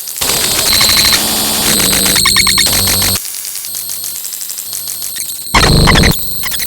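Harsh electronic static mixed with steady buzzing, alarm-like tones. It switches abruptly between loud and quieter sections: loud for the first three seconds, quieter with rapid high pulsing, then a short loud blast about five and a half seconds in.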